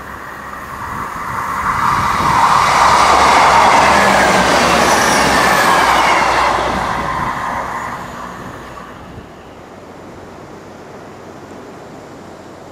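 Diesel multiple unit passing close by at speed. The engine and wheel noise swells as it approaches, then fades away, with a whine that drops in pitch as it goes past.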